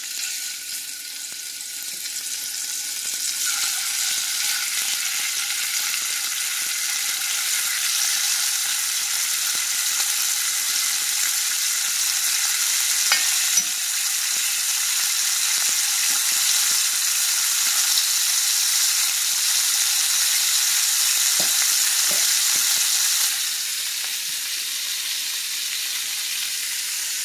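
Raw chicken breasts sizzling in hot oil in a cast-iron skillet. The sizzle builds over the first several seconds as more pieces go into the pan, then holds steady. A few light clicks of the fork against the pan come in the middle.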